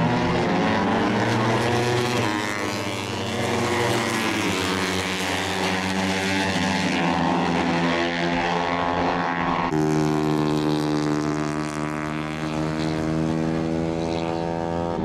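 Moto3 race bikes' 250 cc single-cylinder four-stroke engines running hard at high revs as they circulate, several engine notes overlapping and gliding slightly in pitch, with a sudden change in the sound about ten seconds in.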